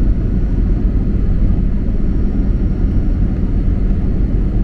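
Steady low rumble of engine and airflow noise heard inside a passenger airplane's cabin on descent for landing.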